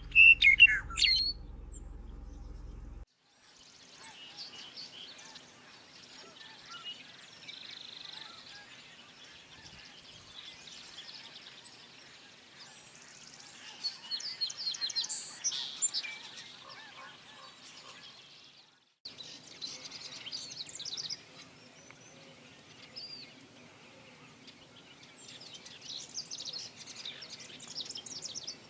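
Several wild birds calling, a mix of short chirps and rapid trills. A few loud falling calls open it over a low rumble that stops abruptly about three seconds in, and a louder burst of calls comes about halfway through.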